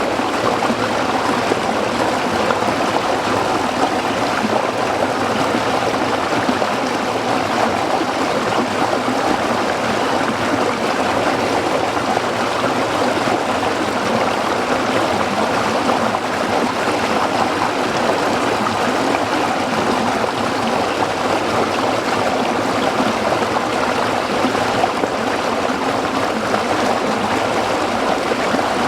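A small stream running over rocks: a steady, even rush of water with gurgling, unchanging throughout.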